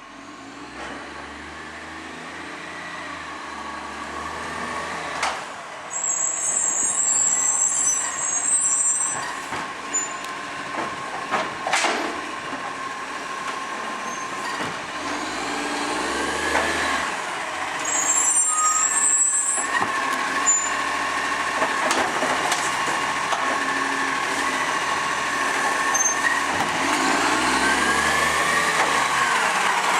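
ACCO automated side-loader garbage truck running, its engine powering up and falling back to idle several times as it drives the lifting arm, over a steady whine. Two short bursts of air hiss from the brakes, and the truck grows louder over the first half.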